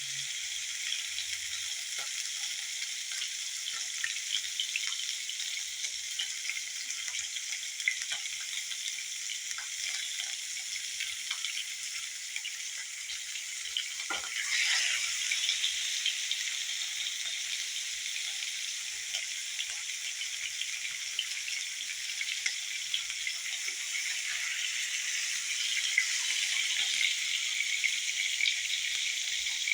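Chicken frying in hot oil: a steady sizzle with small crackles. About fourteen seconds in there is a knock, then the sizzle briefly grows louder.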